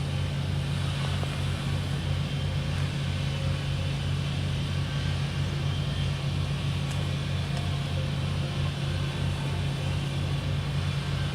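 An engine idling steadily nearby, a low, even hum with a faint rapid flutter underneath.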